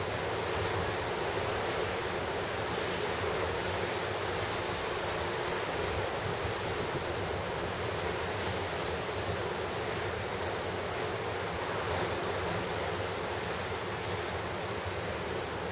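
Ocean surf breaking on the shore: a steady, continuous wash of waves, with wind buffeting the microphone.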